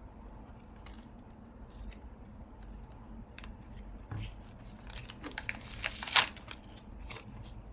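Paper and masking tape being handled on a craft table: faint rustling at first, then a run of small crinkles and clicks, with one sharper crackle about six seconds in.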